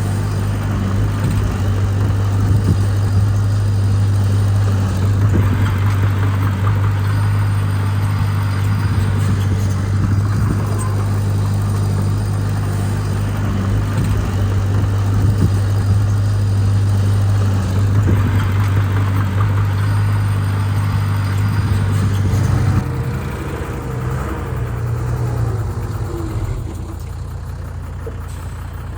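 Heavy-equipment diesel engine running steadily under load with a deep, constant hum. About three-quarters of the way through, the hum drops off and the engine note falls, easing down toward idle near the end.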